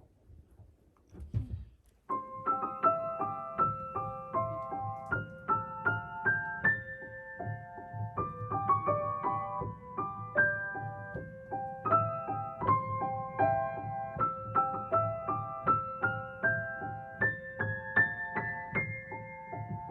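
Solo piano background music, a lively melody of short, crisp notes over a steady bass, starting about two seconds in.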